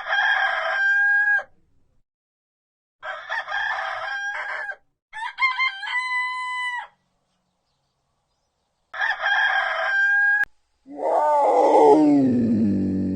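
Rooster crowing four times, with pauses between the crows. Near the end a deep, drawn-out call from another animal begins, falling in pitch.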